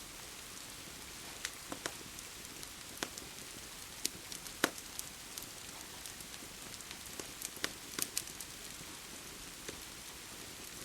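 Steady rain hiss under the irregular sharp pops and crackles of a wood fire burning in a fireplace.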